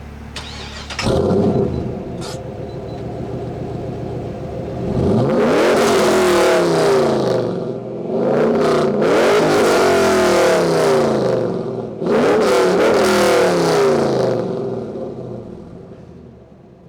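A Chevrolet LS1 5.7-litre V8 running through Hooker mid-length headers, an off-road Y-pipe and a Hooker Aerochamber muffler, being revved: a short blip about a second in, then three long revs held a couple of seconds each, dropping back to idle between them. The sound dies away near the end.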